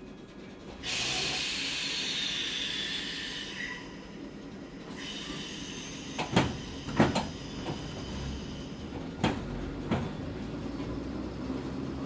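Onboard a Hakone Tozan Railway Moha 1 electric car with nose-suspended motors: a sudden hiss starts about a second in and lasts some four seconds. Then comes a low running rumble with sharp clacks of the wheels over rail joints, in two pairs.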